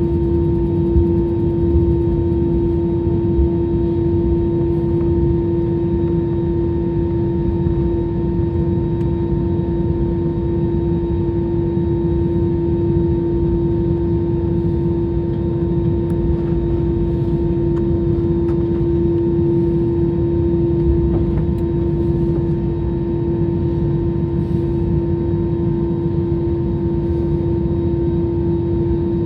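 Jet airliner engines running, heard inside the passenger cabin as a steady rushing noise under a constant hum that neither rises nor falls.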